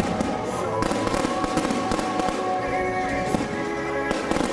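Fireworks crackling and popping in a dense, unbroken stream, with music playing underneath.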